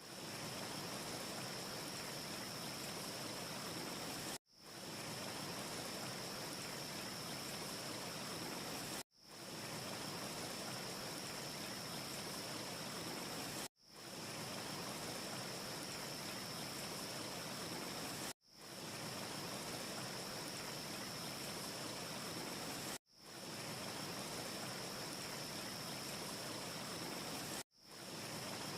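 Steady rushing hiss from a looped ambience track. It drops out abruptly about every four and a half seconds, six times, and each time fades back in over about half a second. No fire crackle is heard.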